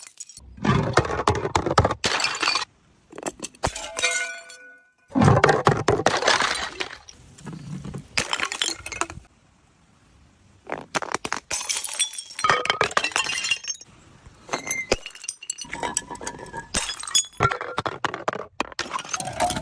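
Glass bottles smashing one after another, each a crash of breaking glass trailing into clinking shards. A bottle rings briefly about four seconds in, and there is a short pause about halfway.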